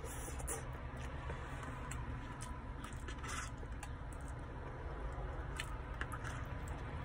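A person eating chili cheese fries: scattered short chewing and mouth sounds, a few a second at most, over a steady low hum.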